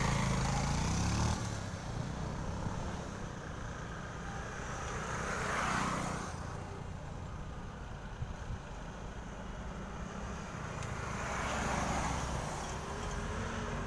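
Heavy trucks driving past one after another: a steady low engine drone, with the rushing sound of a passing truck swelling and fading three times.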